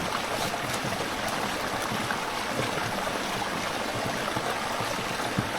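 Steady rushing noise of running water, even in level, with a few faint ticks.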